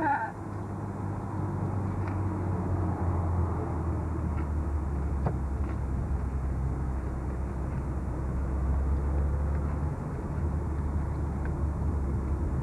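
A car driving on the road, heard from inside: a steady low drone of engine and road noise.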